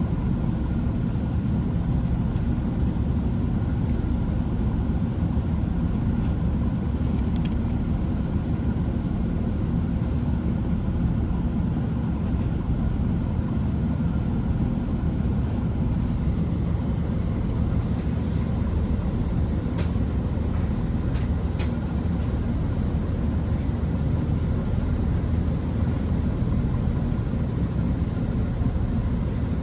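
Steady low drone of a Class 165 diesel multiple unit heard from inside the carriage, engines and running noise unchanging throughout, with a few light clicks about twenty seconds in.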